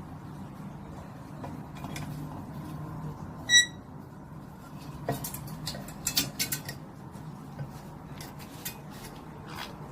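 Pet parrot giving one short, high squeak about three and a half seconds in, followed by a run of sharp clicks and taps, over a steady low hum.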